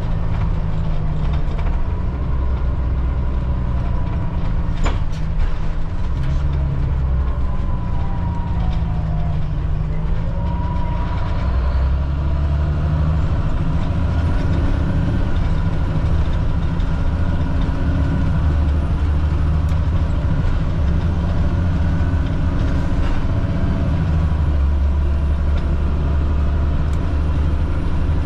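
Cat C7 inline-six diesel of a Blue Bird All American front-engine school bus running while the bus is driven, heard from the driver's seat, its pitch shifting as engine speed changes. A single sharp click sounds about five seconds in.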